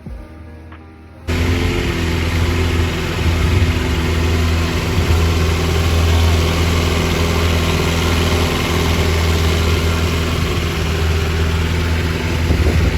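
Longtail boat engine running steadily and loud, with a broad rushing noise over it; brief music gives way to it abruptly about a second in.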